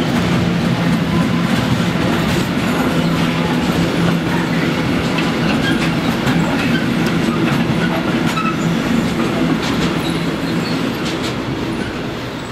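Intermodal freight train of pocket wagons carrying trailers and tank containers rolling past: a steady rumble of wheels on rail with clattering over the rail joints. It fades near the end as the last wagon goes by.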